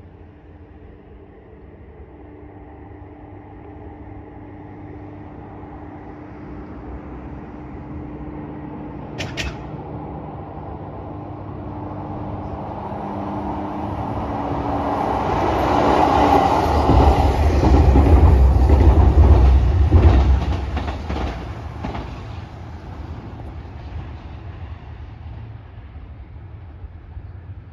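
DEC741 diesel-electric inspection railcar approaching along a concrete bridge and passing. Its hum grows into a loud low rumble, with wheels clacking over rail joints as it goes by, then fades into the distance. A single sharp click sounds about nine seconds in.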